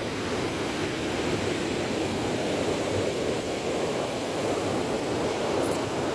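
Surf of a rough sea washing steadily, an even wash of breaking waves.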